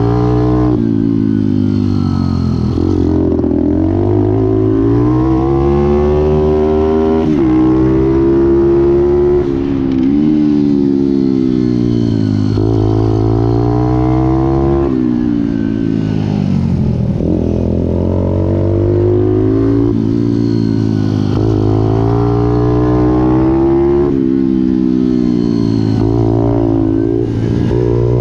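Pit bike's small single-cylinder engine revving hard, its pitch climbing and then dropping sharply again and again as the rider works through the gears and on and off the throttle.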